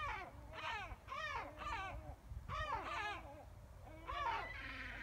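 Birds calling: a run of short, harsh calls that fall in pitch, about eight in five seconds, some singly and some in quick pairs, over a steady low rumble.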